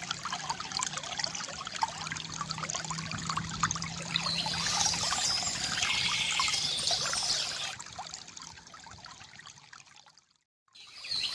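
Water trickling and gurgling from a bamboo fountain, with birds chirping about halfway through. The sound fades out from about eight seconds in, drops to a moment of silence, then comes back just before the end.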